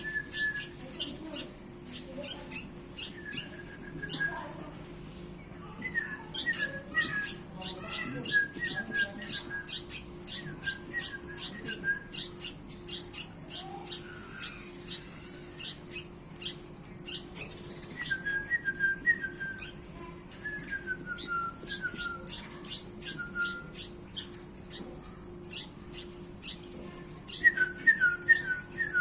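A small bird calling in bouts: quick runs of sharp, high chips mixed with short falling whistled notes, over a faint steady hum.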